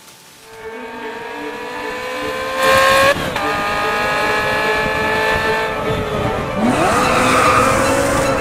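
Ferrari F355's 3.5-litre V8 accelerating hard. Its pitch climbs for about three seconds, peaks loudly, then drops at an upshift and climbs again. Near the end, tyre and road noise swell as the car goes by.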